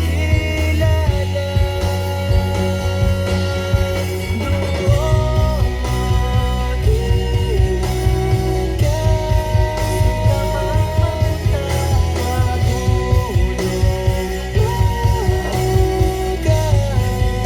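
A song with a singing voice, guitar and heavy, pulsing bass, played over a car audio system.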